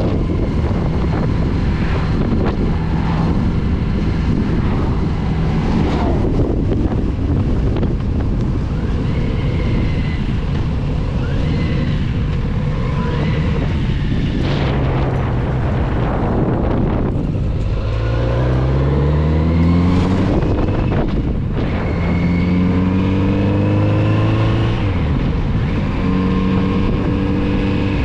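Kawasaki Z900RS inline-four engine heard on board under heavy wind noise on the microphone. About two-thirds of the way in the engine pulls hard with a steadily rising pitch, drops at a gear change, and climbs again.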